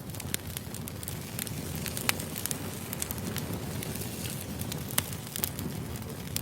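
Firewood burning: irregular sharp crackles and pops over a steady low rumble, with a louder pop about two seconds in and another about five seconds in.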